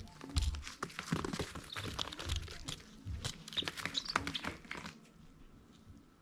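Baby chicks scratching and pecking with rustling, crinkling and sharp clicks, and a few short high peeps; it quietens about five seconds in.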